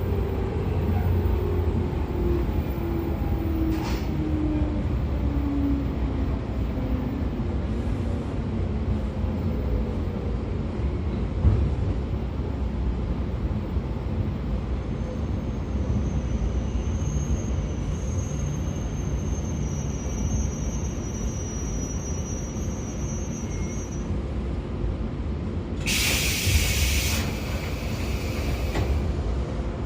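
Running sound of a 113 series electric train heard inside motor car MoHa 113-5716: a steady rumble of wheels on rail, under which the whine of its MT54 DC traction motors and gears falls in pitch over the first several seconds as speed drops. A single knock about eleven seconds in, and a short hiss near the end.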